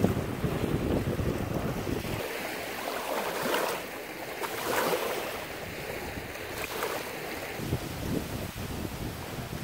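Wind buffeting the microphone, heavy for about the first two seconds and then easing, over a steady rush of wind and lake waves lapping.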